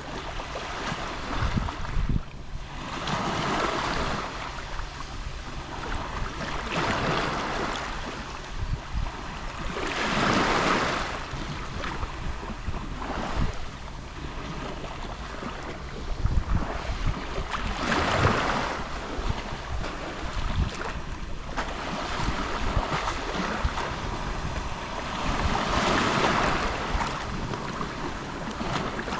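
Gentle Mediterranean sea waves lapping on the shore: a hiss of washing water that swells and falls away every few seconds.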